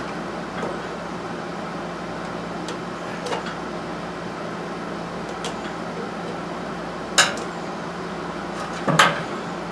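A few sharp metal clinks of hand tools working at the mini bike's drive chain while its connecting link is taken off, the loudest two about 7 and 9 seconds in, over a steady background hum.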